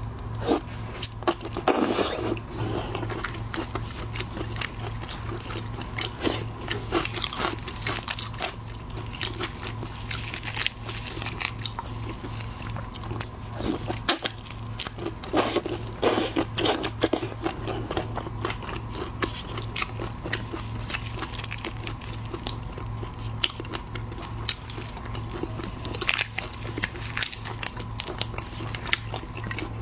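Close-miked eating of shellfish: a steady run of crunching, crackling bites and chewing, with sharp cracks scattered throughout, over a constant low hum.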